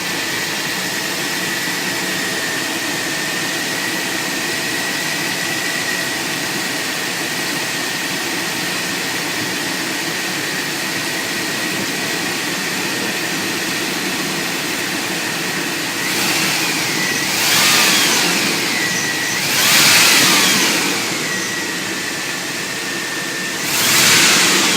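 1998 Chevrolet pickup's Vortec 350 (5.7 L) V8 idling steadily, with a thin high whine running under it. In the last third the throttle is blipped three times, and each time the revs rise and then fall back to idle.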